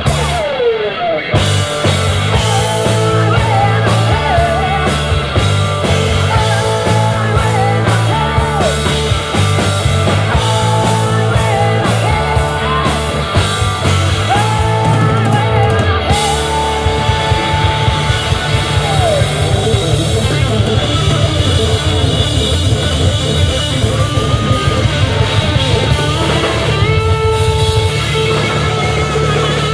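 Live rock band playing loud, a sliding, bending lead line over a steady bass and drum backing.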